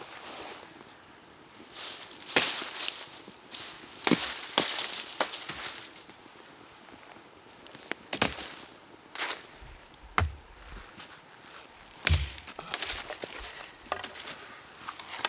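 Irregular sharp knocks and cracks of wood being worked by hand, mixed with rustling in dry fallen leaves.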